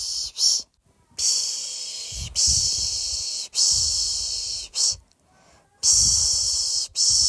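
A person making rhythmic shushing 'pish' sounds, one long shush of about a second after another, with two brief pauses: the soothing shush used to lull a baby to sleep.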